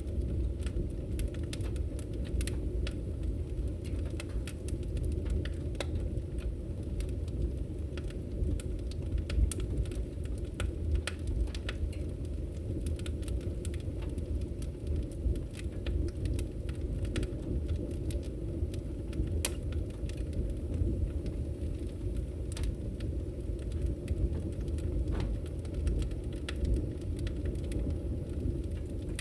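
Campfire crackling: a steady low rumble of burning with irregular sharp pops and crackles scattered throughout.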